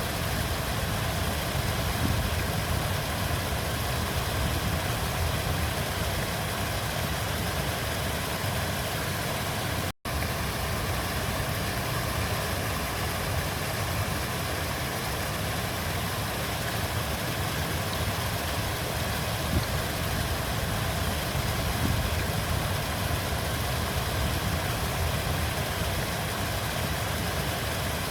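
River water flowing, a steady rushing with a deep rumble underneath. The sound cuts out for an instant about ten seconds in.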